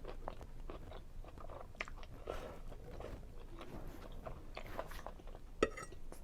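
Close-up chewing and mouth sounds of a person eating seafood linguine Alfredo: irregular small wet clicks and smacks, with one sharp click near the end.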